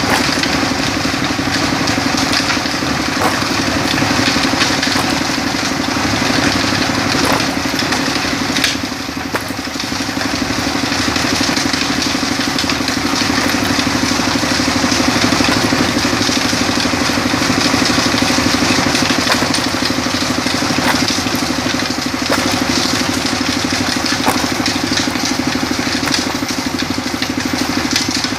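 Truck engine running steadily under load, with a short drop in level about nine seconds in.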